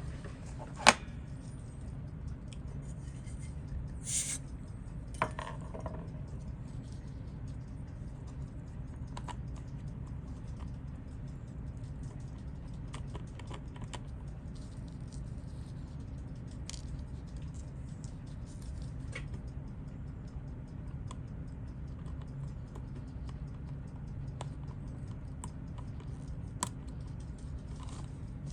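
Scattered light clicks and taps of small watchmaker's tools handling a watch case and parts, with one sharper click about a second in and a short hiss about four seconds in, over a steady low hum.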